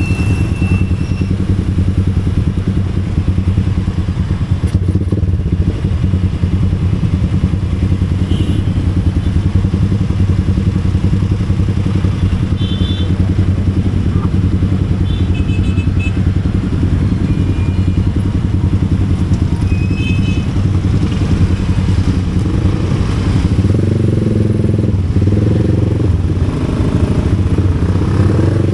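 Motorcycle engine running steadily while riding along, with a change in engine note about three-quarters of the way through.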